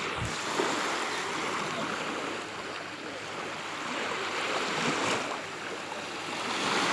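Sea of Azov waves washing onto the shore: a steady rushing that swells and eases, louder about four seconds in and again near the end.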